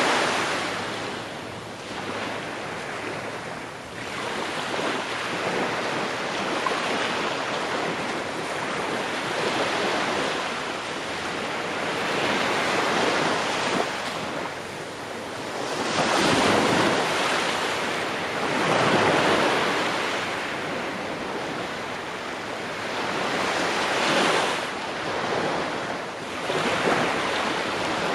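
Ocean waves breaking and washing on a shore, a continuous surf wash that swells and ebbs every few seconds, with louder breakers about 16, 19 and 24 seconds in.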